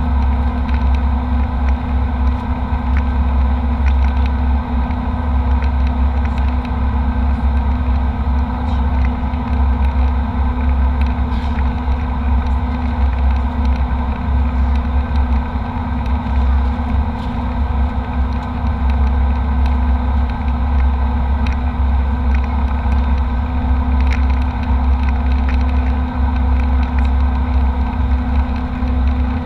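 Steady in-flight cabin drone of a jet airliner: engine and airflow noise with a strong low rumble and a few steady hum tones, unchanging throughout.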